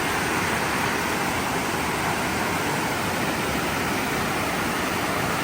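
Steady rushing of falling water from a rainforest waterfall, an even hiss with no breaks.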